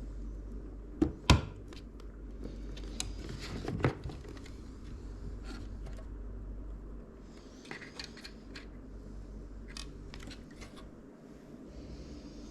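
Clicks and knocks of PC parts being handled by hand: two sharp knocks about a second in, another near four seconds, then a run of lighter clicks.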